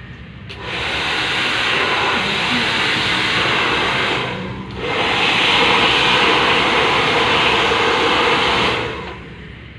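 Hand-held hair dryer blowing in two runs of about four seconds each, with a brief drop in between.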